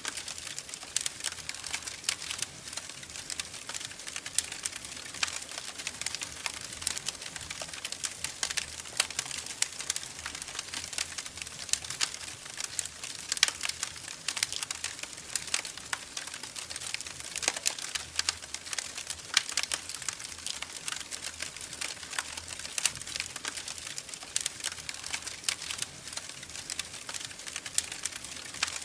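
Wood fire crackling in a fireplace: dense, irregular sharp pops and snaps over a soft hiss.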